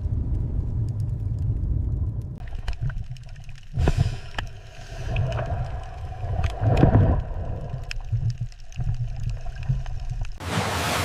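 Underwater ocean ambience: a steady low rumble with gurgling, bubbling swells, then a loud wash of water hiss near the end.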